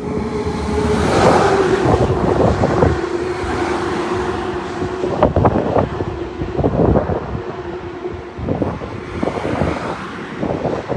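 Jet airliner coming in to land, its engine noise carrying a steady tone that slowly drops in pitch, with wind buffeting the microphone.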